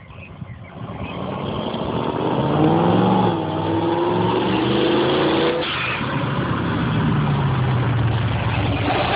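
Twin-turbo Dodge Dart, running with no exhaust system fitted, only a temporary pipe, accelerating hard as it comes up; the engine note swells and climbs in pitch, drops briefly about five and a half seconds in, then climbs again.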